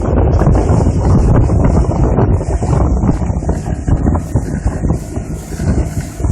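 Wind buffeting the microphone on a moving boat, a loud gusty rumble over the low noise of the boat underway.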